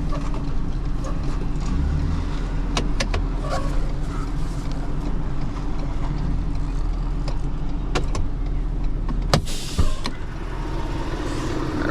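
Truck engine running steadily, with a few sharp clicks and knocks, the loudest about two-thirds of the way through.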